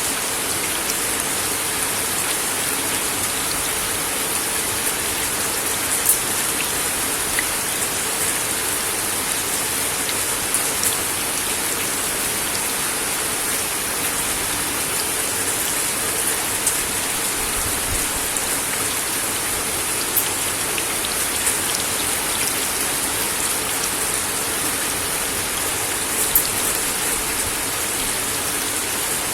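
Steady rain falling on a wooden deck: an even hiss with scattered sharper drip ticks.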